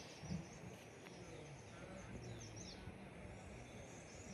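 Faint outdoor ambience: small birds chirping in short, quick high notes over a low, steady background noise.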